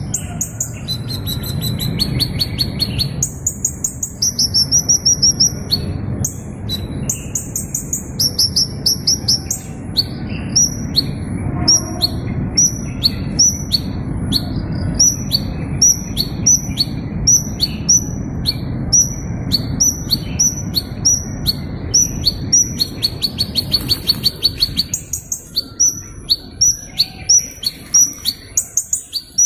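A small bird singing: high, fast trilled phrases alternating with runs of short, sharp chirps repeated about two or three times a second, over a steady low rumble.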